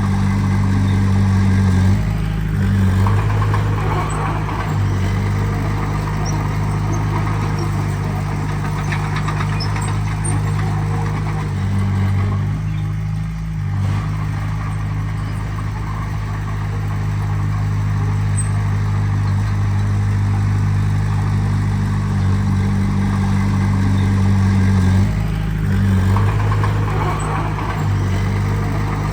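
Diesel engine of heavy earthmoving machinery running steadily, its note shifting a few times as the engine load changes, with a short dip about halfway through.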